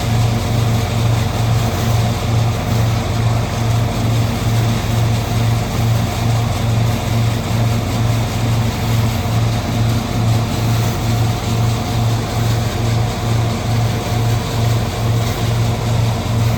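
Hazelnut threshing machine (patoz) running steadily, with a low engine hum that throbs evenly a few times a second under a constant rattling clatter.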